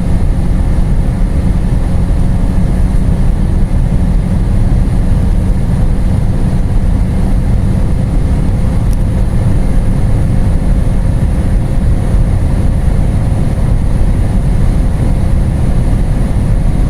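Volkswagen Passat B8's 1.5 TSI turbocharged four-cylinder pulling steadily at full throttle in a high gear at high speed, under a loud, even rush of road and wind noise, with no gear change.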